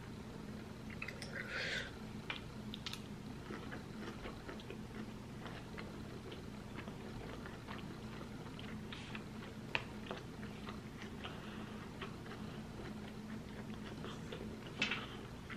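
Close-miked chewing of cheesy spicy Korean noodles, with many small wet mouth clicks and smacks over a faint steady hum.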